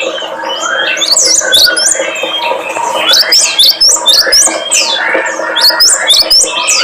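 Small songbirds chirping and twittering in a dense, overlapping chorus of quick sharp notes, many falling quickly in pitch: a bird-lure recording of cinereous tit, prinia and white-eye song.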